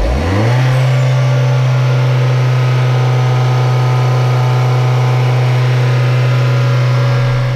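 Citroën C4's 1.6-litre turbocharged EP6CDT four-cylinder petrol engine revving up quickly over the first half second and then held steady at high revs.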